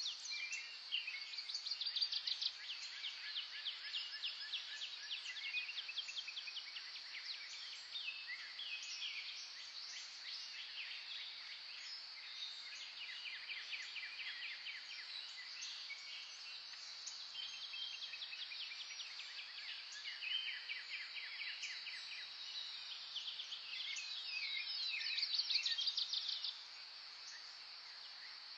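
Several songbirds singing overlapping rapid trills and chirps over a steady high-pitched hum. A loud, fast trill near the end cuts off suddenly.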